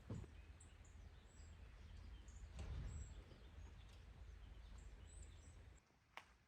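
Quiet forest ambience: faint, short, high bird chirps over a low rumble that drops away near the end.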